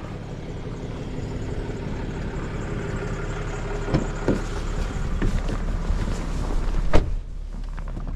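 Tow truck engine running while it maneuvers slowly, heard from inside the cab, getting gradually louder as throttle is added. A sharp click about seven seconds in, after which the engine drops back.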